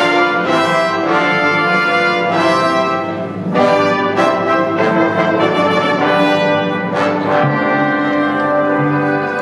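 Orchestra playing a Christmas arrangement, with brass leading in sustained chords.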